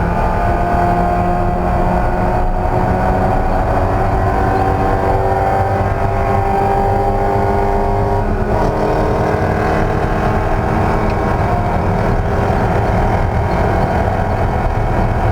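Race car engine pulling hard, its pitch climbing slowly, then dropping sharply at a gear change about eight and a half seconds in before running on steadily.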